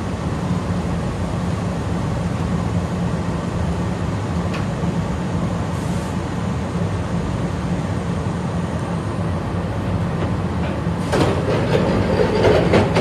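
Toyohashi Railway 1800 series electric train running, heard from inside the cab: a steady hum of the traction motors and gears over wheel-on-rail rumble. About eleven seconds in, louder clattering and knocks from the wheels and carriage come in for a couple of seconds.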